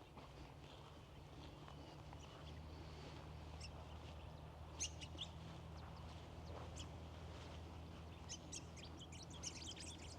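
Birds calling faintly: a few short, high chirps about halfway through and a rapid flurry of chirps near the end, over a steady low rumble.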